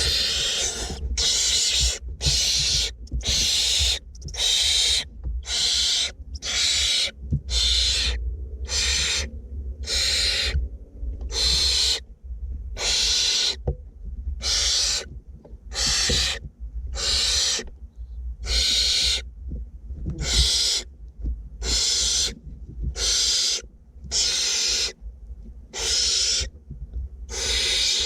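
Barn owlets giving their hissing, snore-like begging calls, about one a second, each a harsh rasp lasting half a second to a second.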